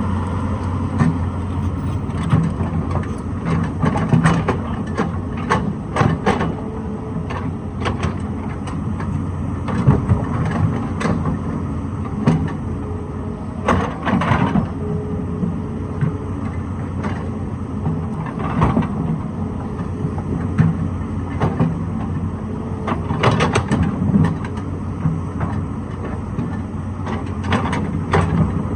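Excavator's diesel engine running steadily, with repeated sharp knocks and clanks scattered throughout as the machine works rock.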